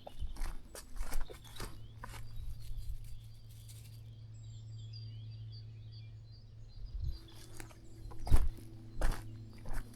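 Footsteps crunching on a countryside path, pausing for a few seconds while small birds chirp, then starting again with one heavier thud a little past eight seconds. A faint steady low hum runs underneath.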